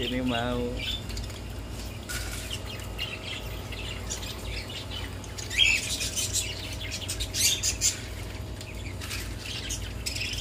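Caged birds chirping in scattered short bursts over a steady low hum.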